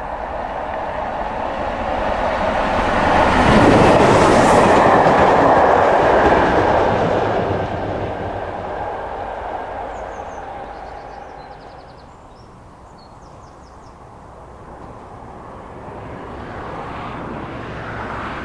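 A train passing on the line with wheel clatter on the rails. It swells to its loudest about four to six seconds in and then fades away. Another rise in train noise comes near the end.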